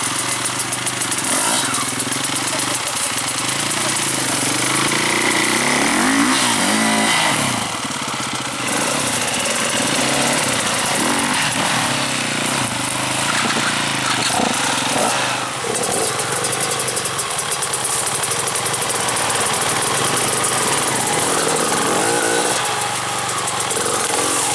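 Enduro dirt bike engines revving, the pitch rising and falling again and again as the throttle is worked.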